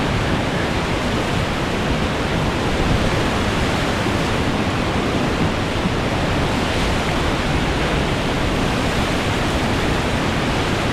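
Whitewater rapids rushing, a loud steady roar of water.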